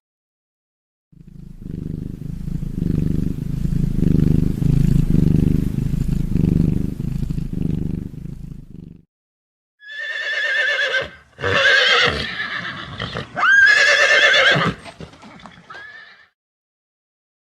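A low, pulsing rumble for about eight seconds, then a horse whinnying several times in quick succession, each neigh a high, wavering call that falls away.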